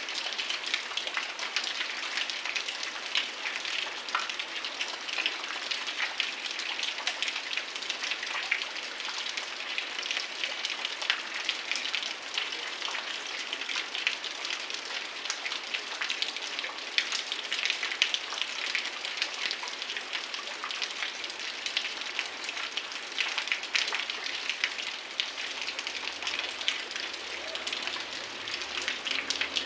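Heavy rain falling steadily, a dense hiss of countless close drop impacts.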